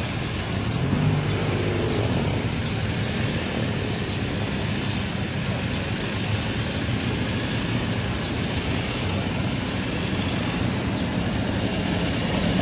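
A procession of police motorcycles riding past, many engines running together in a steady stream of engine noise.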